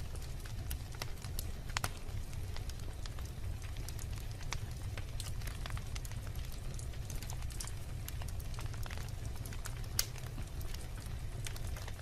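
Logs burning in a fireplace, crackling with irregular sharp pops and snaps over a steady low rumble. One louder pop comes about ten seconds in.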